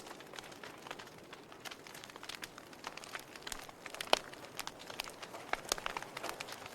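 Wood fire crackling: irregular snaps and pops over a soft hiss, with one sharp pop about four seconds in.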